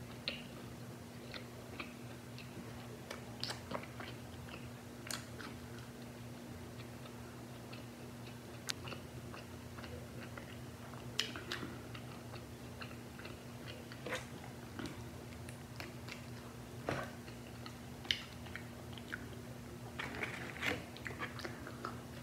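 Close-miked biting and chewing of a crispy fried chicken burger: soft crunches and wet mouth clicks, scattered irregularly, with a fresh run of crunchy bites near the end. A steady low hum runs underneath.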